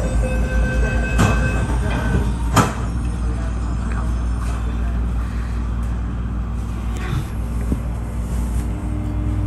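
Interior running noise of an MTR East Rail Line MLR electric train: a steady low rumble, with two sharp metallic clanks about one and two and a half seconds in. A thin steady whine fades out about two seconds in.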